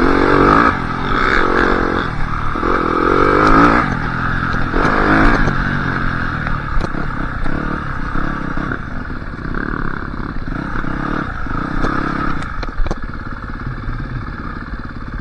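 Yamaha YZ250F dirt bike's four-stroke single-cylinder engine running, rising and falling in pitch with the throttle over the first few seconds, then settling to a steadier, slightly quieter note.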